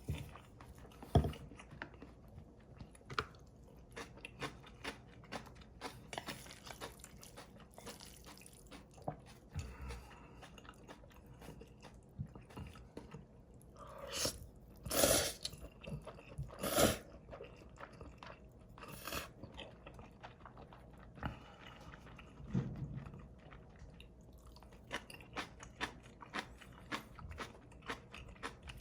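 Close-miked mukbang eating of cold bibim instant noodles: wet chewing with many small mouth clicks and smacks, and a few louder, longer bursts about halfway through.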